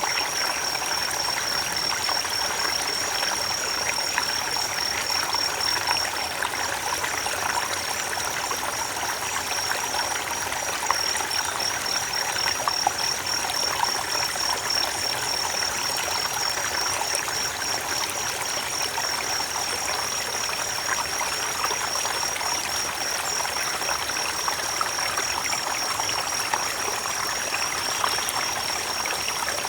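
Water of a small stream running and trickling steadily over its bed, with a thin, continuous high-pitched tone above it.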